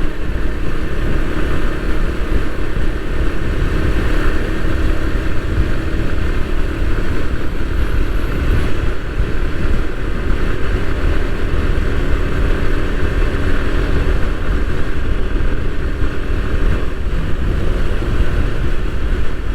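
Bajaj Pulsar NS160's single-cylinder engine running at a steady cruise, mixed with heavy wind rush on the rider's microphone.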